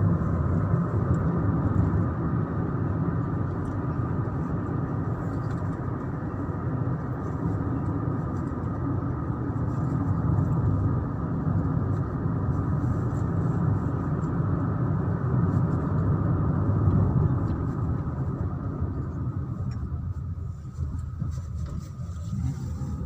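Steady low rumble of road and engine noise inside a moving car's cabin. It eases a little near the end.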